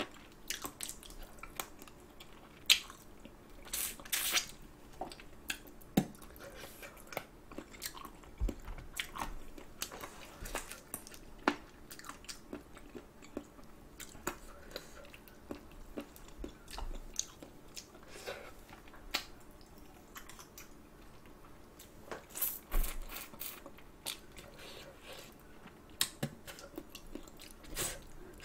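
Close-miked chewing and biting of spicy braised chicken feet, with irregular crunches and clicks as the small bones are chewed through.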